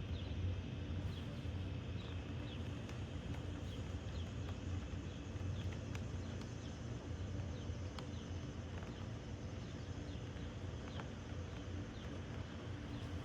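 Outdoor ambience: a steady low rumble with faint, short descending chirps recurring throughout and a few soft clicks.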